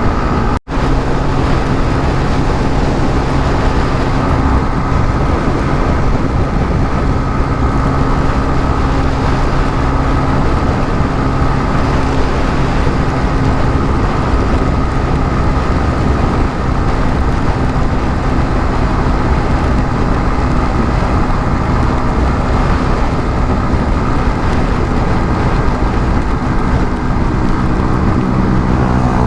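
150cc motorcycle engine running at a steady cruising speed, buried in heavy wind rush on the rider's microphone.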